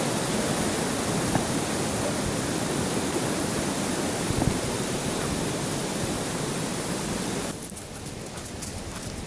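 Steady rushing noise of running water from a stream. It drops off sharply about seven and a half seconds in.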